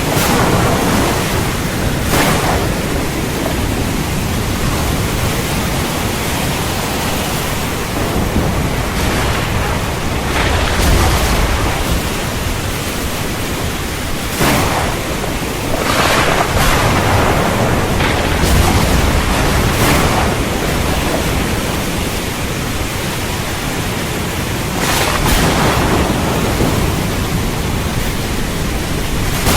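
Steady rain falling with a continuous hiss, with low rumbles of thunder swelling a couple of times, about a third of the way in and again past the middle.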